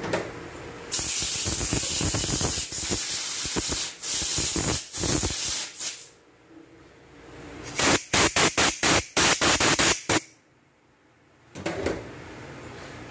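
Pressurised spray hissing in a long, uneven blast for about five seconds, then, after a pause, about nine short sharp bursts in quick succession, roughly four a second; a brief clatter follows near the end.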